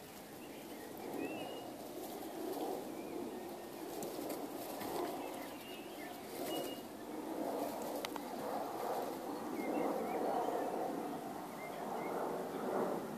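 Birds calling outdoors: a low cooing under faint short chirps.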